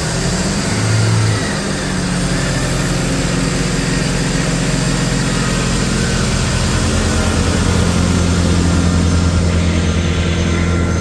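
Diesel train engine running loudly, with a steady low note that swells slightly about a second in and again towards the end.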